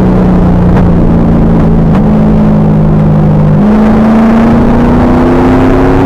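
Car V8 engine under hard load on a race track, recorded loud and overdriven with heavy wind and road noise. The engine note changes a little past halfway, then its pitch climbs steadily as the car accelerates.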